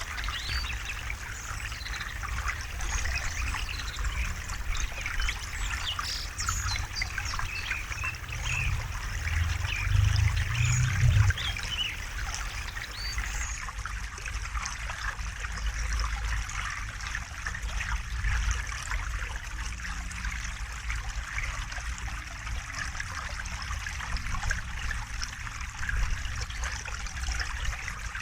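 River water trickling and splashing over rocks, running steadily, with a low rumble underneath that swells about ten seconds in. Birds chirp faintly in the first half.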